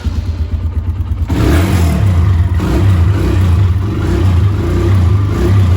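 Small dirt bike engine just started on choke, running unevenly. About a second in it gets louder under throttle and stays up while it warms up.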